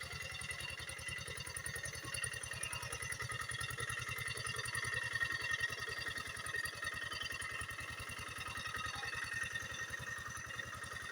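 Quick G 600 hand tractor's engine running steadily with a rapid, even beat.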